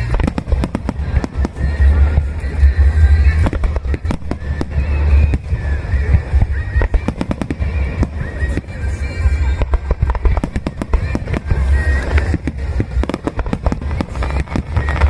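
Fireworks bursting in quick succession: many sharp bangs and crackles over deep booms, with music playing along.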